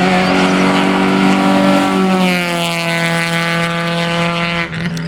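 Citroën Saxo 16V hillclimb car's four-cylinder engine running hard at high revs. Its note holds steady, then falls gradually in pitch over the second half and drops away near the end.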